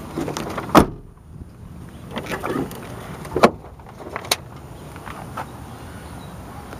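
Pickup truck door shutting with a solid thump about a second in, followed by a few lighter knocks and a click as the cab is handled.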